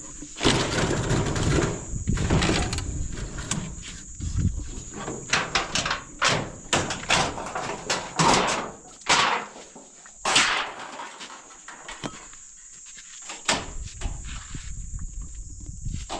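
A small gutter pipe being taken down and handled: a run of scrapes, rattles and knocks, busiest in the first ten seconds and thinning out near the end.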